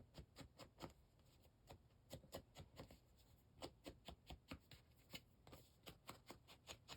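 Faint, irregular soft tapping, several taps a second, from an ink dauber being dabbed along the edges of paper, with light paper handling.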